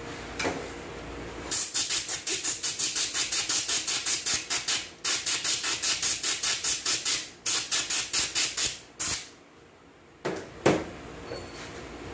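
Rapid series of short hissing spurts of air or spray, about six a second, in three runs with brief pauses, then a couple of single spurts near the end.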